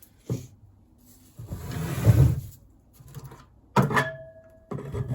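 Metal engine parts being handled on a bench: a knock, a longer scraping slide, then sharper clunks, one of which leaves a short ringing tone.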